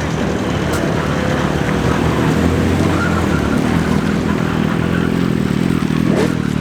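A car engine running at low revs as the car rolls slowly past, strongest around the middle.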